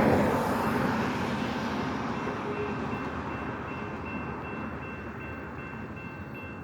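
CSX mixed freight train rolling past: a steady rumble of cars on the rails, loudest at the start and slowly fading, with a faint steady high tone through the second half.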